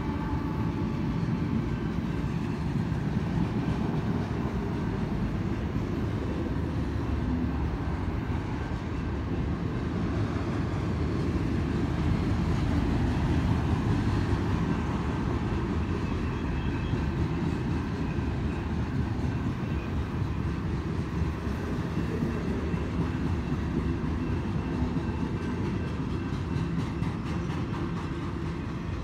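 Freight cars of a manifest train rolling past on the rails: a steady, low rumble of steel wheels on track.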